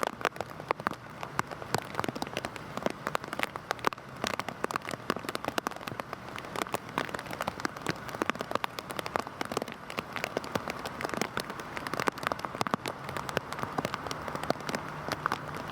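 Heavy rain falling steadily, a dense patter of individual drops striking a surface. A faint low hum comes in near the end.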